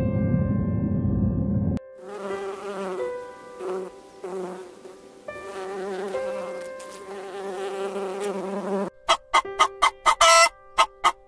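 A loud low rumble that cuts off suddenly about two seconds in, followed by several seconds of a wavering, buzzing animal call over soft background music. A quick run of sharp clicking calls starts near the end.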